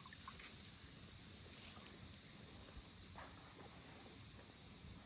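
Faint outdoor ambience: a steady high-pitched insect chorus, with a few faint short chirps.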